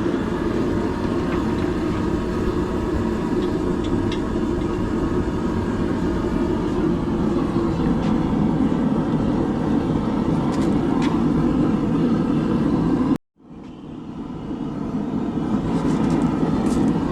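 Forge running with a steady low roar, with a few faint metal taps. About thirteen seconds in it cuts out abruptly, then rises back over a second or two.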